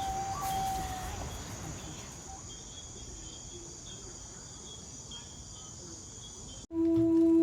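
Night insects, crickets: a steady high-pitched trill with a repeating lower chirp. A held tone fades out about a second in. Near the end the insect sound cuts off abruptly and music begins.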